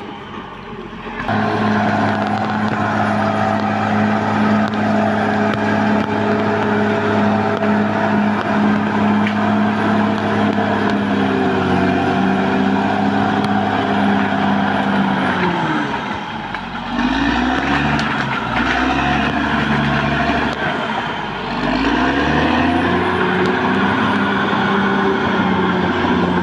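Caterpillar D6R XL bulldozer's diesel engine running hard, starting loud about a second in. Past the middle its pitch sags and glides up and down a few times before settling steady again.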